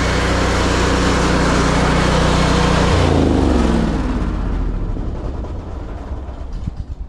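Pressure washer running with the hiss of the water jet over the drone of its engine; about three seconds in the spray stops and the engine's pitch falls away as it winds down and shuts off.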